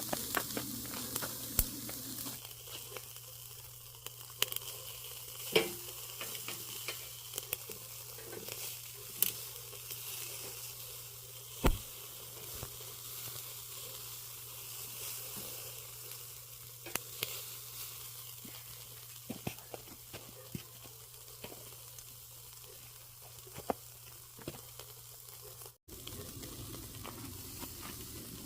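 Chicken deep-frying in hot oil in a cast-iron cauldron: a steady sizzle with many scattered sharp pops and crackles.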